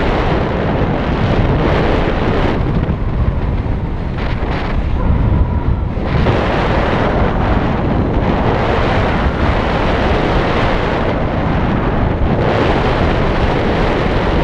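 Airflow in flight buffeting the microphone: a loud, steady wind rush that swells and eases in waves, with no engine.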